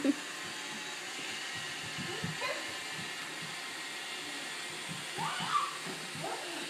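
Roomba robot vacuum running with a steady whirring hum.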